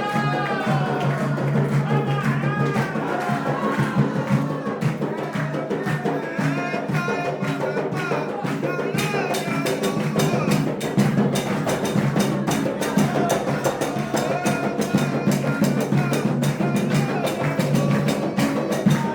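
Candomblé ritual music: hand drums beaten in a fast, steady rhythm with a ringing struck percussion part, and voices singing, the singing strongest in the first few seconds.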